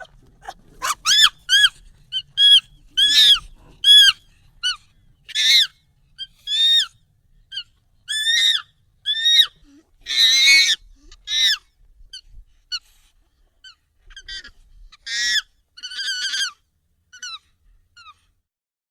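Monkey calls, sped up and pitched up: a rapid, irregular series of short, high calls, each rising then falling in pitch, with a few louder, harsher ones about halfway through.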